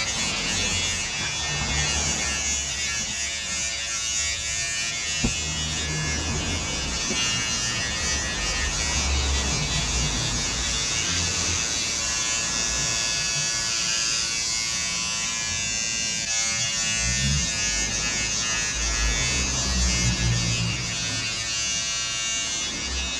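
Electric hair clippers running with a steady buzz while cutting hair, with irregular low rumbles from handling.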